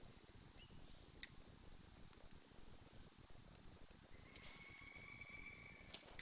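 Faint, steady, high-pitched drone of summer insects. A sharp click comes about a second in, and a louder one at the very end.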